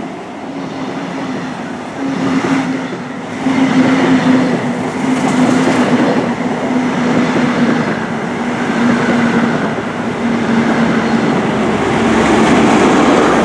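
InterCity 125 High Speed Train with Class 43 diesel power cars passing through the station at speed: a steady diesel engine note over the clatter and rush of wheels on rails, growing louder about three seconds in and again near the end.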